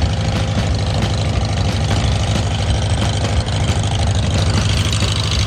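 Old Farmall tractor engine running steadily, with a low, even pulsing.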